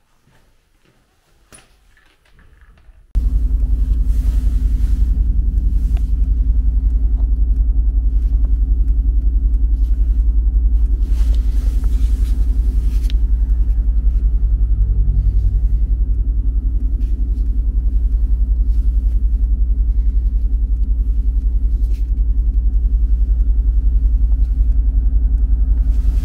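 Mercedes-AMG GT R's twin-turbo V8 running at a steady, unchanging speed, a loud deep rumble that cuts in abruptly about three seconds in.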